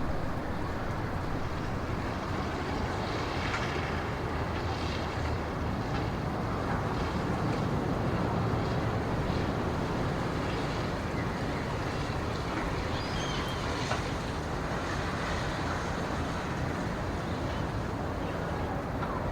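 Wind blowing steadily through a pine forest, a soft even rush with no distinct events.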